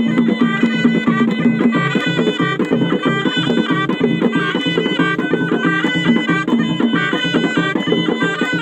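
Traditional North African ghaita (rhaita, a double-reed shawm) playing a fast, ornamented folk melody over steady, rapid drumming.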